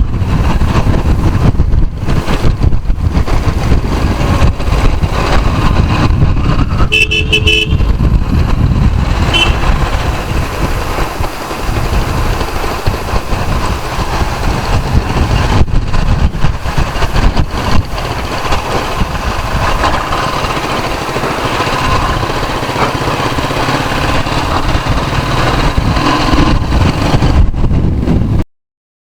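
Road noise of a ride on the move: engine and wind rushing over the microphone, with a vehicle horn honking about seven seconds in and a short toot about two seconds later. The sound cuts off suddenly just before the end.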